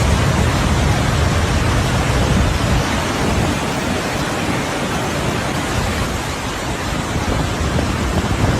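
Loud, steady rushing storm noise with a deep rumble underneath, the sound of heavy weather and floodwater.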